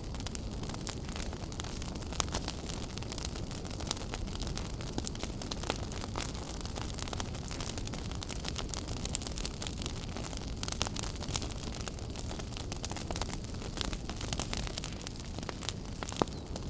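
Fire burning in a fireplace, crackling continuously over a steady low rumble, with frequent small snaps and a few louder pops.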